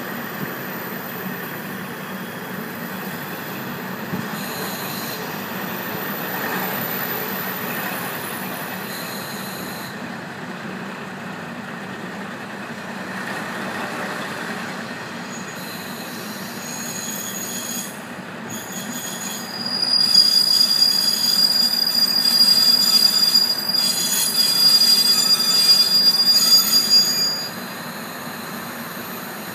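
KiHa 48 diesel railcar running on the rails with a steady rumble. From about two-thirds of the way in, a loud high-pitched squeal from the running gear sets in as the railcar slows almost to a stop, then cuts off suddenly.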